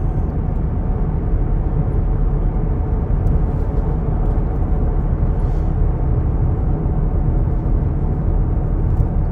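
Steady engine and tyre rumble of a car cruising down a mountain highway, heard from inside the cabin.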